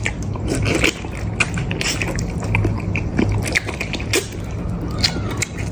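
Close-miked eating sounds: chewing and biting, a run of irregular sharp wet clicks, over a steady low hum.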